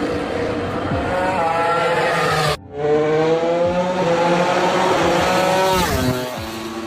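Racing motorcycle engine accelerating, its pitch rising steadily. It cuts off abruptly about two and a half seconds in, then comes back climbing again. Near the end the pitch drops quickly as it backs off.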